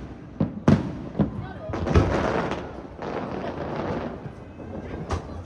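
Aerial firework shells bursting with sharp bangs, several in the first two seconds and one more near the end, over a murmur of crowd voices.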